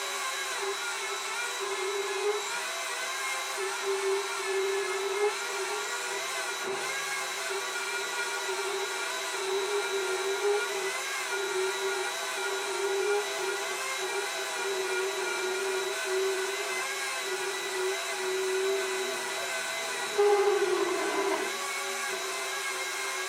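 Mini lathe's electric motor running with a steady whine, slightly wavering in pitch; it gets louder for a moment about twenty seconds in.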